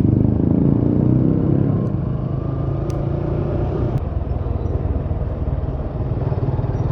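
Suzuki Gixxer motorcycle engine running steadily while riding, its note easing down slightly in the first couple of seconds, over steady wind and road noise.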